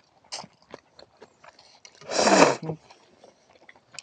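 Cold ramen noodles slurped loudly once, about two seconds in, with small clicks and taps of eating around it.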